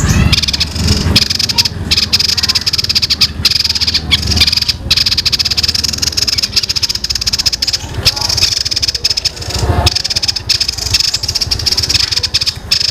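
Songbird singing a fast, dense, high-pitched rattling trill in the rapid-fire 'tembakan' style, with a few brief breaks, over a low hum.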